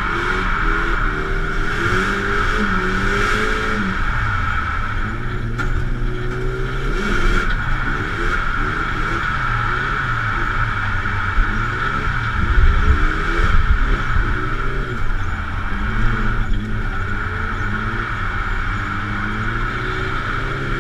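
Drift car's engine revving up and down hard, heard from inside the cabin, pitch climbing and dropping again and again as the throttle is worked through slides, with a steady high whine over it. A few louder knocks come about midway through.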